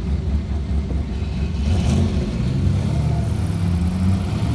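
Turbocharged Ecotec V6 of a Holden Commodore running at low revs, heard from inside the cabin. The engine note lifts a little about two seconds in.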